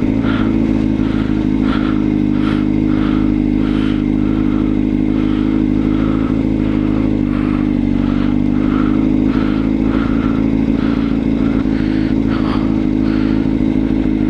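Honda CBR600RR inline-four engine running at a steady speed, with a regular ticking clatter about two to three times a second over the engine note. The rider hears it as the valves and suspects the cam chain tensioner.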